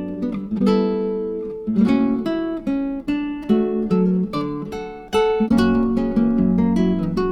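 Background music: acoustic guitar plucked and strummed chords.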